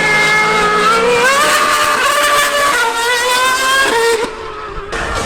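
High-revving racing engine at full throttle, its pitch climbing with speed and stepping at gear changes. About four seconds in, the sound drops quieter and duller for a moment before the loud engine returns.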